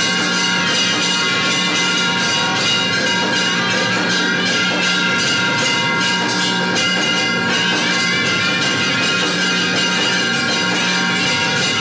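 Hindu temple aarti bells ringing rapidly and without a break, their many struck tones overlapping into a continuous loud ringing.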